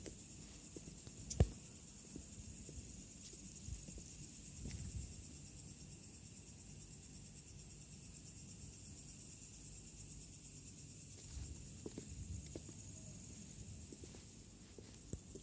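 Steady high-pitched chirring of night insects such as crickets. A single sharp click about a second and a half in is the loudest sound, with a few faint low thumps later on.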